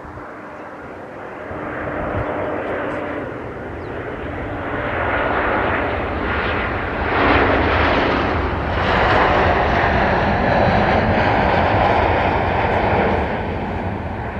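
Jet airliner passing close: engine noise builds over several seconds, is loudest in the second half with a faint whine falling in pitch, then begins to fade near the end.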